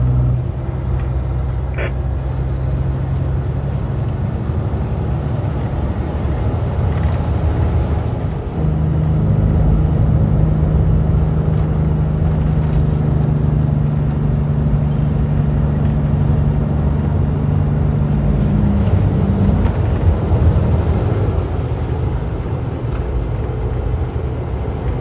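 Heavy-haulage truck diesel engines running steadily under load, with a low rumble throughout. A louder, steadier engine note comes in about a third of the way through and drops away a few seconds before the end, with a faint high whistle at times.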